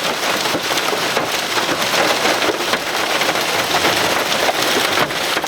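Severe thunderstorm precipitation pelting down hard: a dense, continuous patter of countless small impacts with no let-up.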